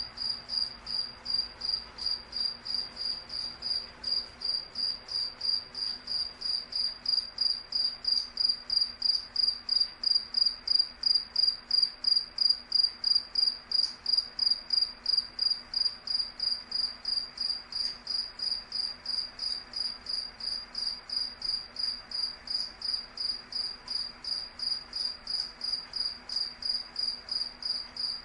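Cricket chirping steadily in an even rhythm of about three high-pitched chirps a second, a little louder around the middle.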